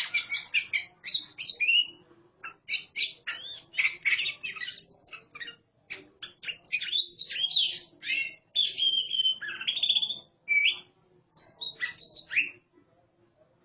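Oriental magpie-robins (kacer) singing against each other: a rapid, varied run of whistles, trills and sharp chirps that stops about a second before the end.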